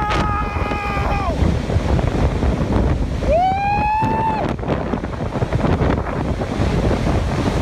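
Strong wind buffeting the microphone in a steady rumble while a tornado forms. Twice, about a second long each, a person calls out in a held whoop, the first falling off at its end and the second rising into its hold.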